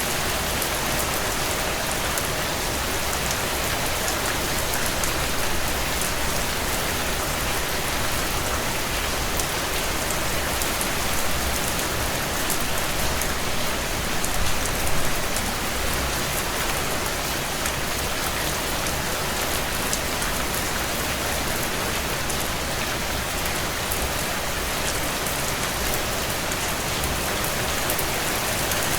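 Heavy rain on a tin roof: a steady, dense hiss of drops striking metal, swelling briefly about halfway through.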